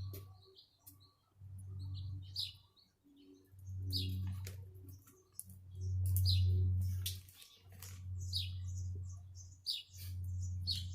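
A bird chirping repeatedly, short falling chirps every second or two, over a low hum that swells and fades at a similar pace, with scattered light clicks.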